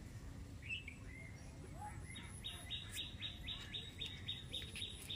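A bird calling: a few scattered chirps, then from about two and a half seconds in a fast, even run of short repeated notes, about five a second, over a steady low rumble.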